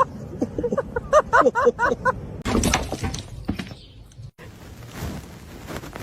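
A quick run of short, pitched chirping notes, then a noisy clatter like something falling and breaking, followed by faint hiss.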